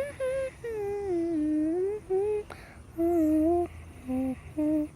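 A voice humming a wordless melody in about six short phrases, gliding up and down in pitch.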